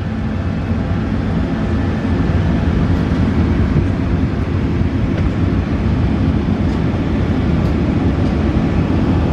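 Steady low rumble with a hiss above it: cabin noise aboard an Airbus A380 before taxi. It grows slightly louder about two seconds in.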